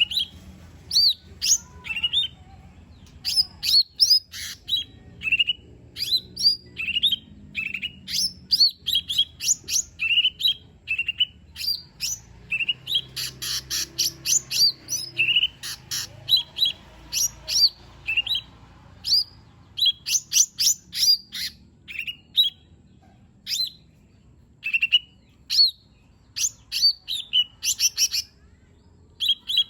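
Lesser green leafbird (cucak ijo mini) in full song: a rapid string of loud, sharp whistled notes and quick slurred phrases, with fast trilled flurries partway through.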